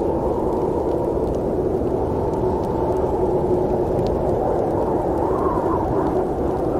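Steady low rumble of a train running, with a faint humming tone underneath and a few faint clicks.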